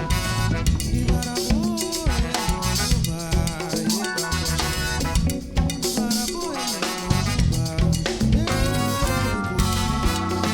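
Live band playing a groove with drum kit and percussion, bass and a melody that bends up and down in pitch over it.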